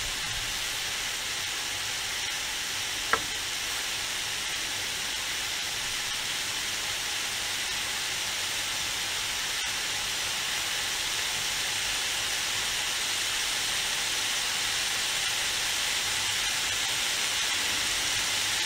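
Diced courgette sizzling as it fries in a pan: a steady hiss that grows slightly louder. One sharp click about three seconds in.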